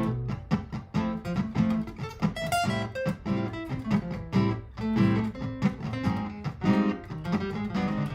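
Martin GPCPA4 acoustic-electric guitar played through a looper pedal: a repeating low accompaniment with quick picked notes layered over it.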